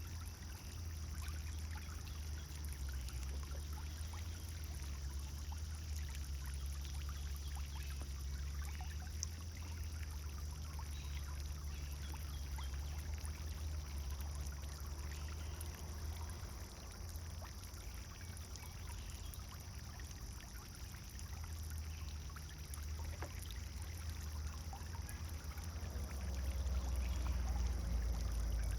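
Pond fountain splashing and trickling steadily into the water, with a low rumble underneath that grows louder near the end.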